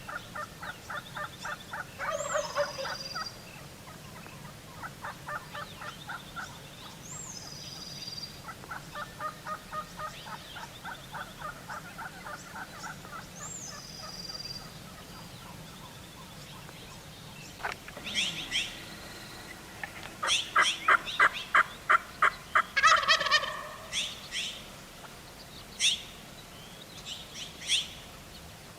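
Gould's wild turkeys gobbling in repeated rapid rattling runs, with a louder, denser bout of gobbling about two-thirds of the way in. Small birds chirp at intervals.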